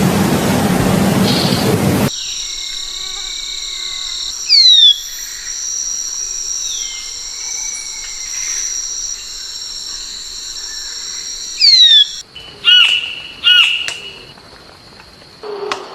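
Birds calling over a steady high insect drone. A bird gives short, sharp downward-sliding whistles, then two loud ringing calls sound close together near the end. A loud rushing noise fills the first two seconds and cuts off suddenly.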